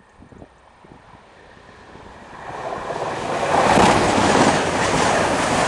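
Passenger train passing close by at speed: a rushing noise builds over the first two seconds or so, then becomes loud with wheel clatter and stays loud as the coaches go by.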